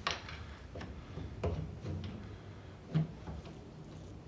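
A few light metallic clicks and knocks, about a second and a half apart, from a bench vice pressing a new universal joint's bearing caps into a propshaft yoke.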